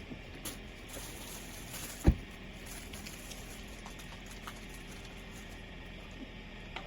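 A single dull thump about two seconds in, with a few small clicks and taps over a low steady background hiss.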